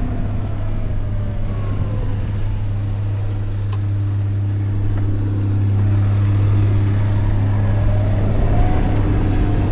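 Riding a VMoto Stash electric motorcycle through city traffic: a steady low rumble of road and wind, with a faint motor whine that falls in pitch over the first couple of seconds and rises again near the end.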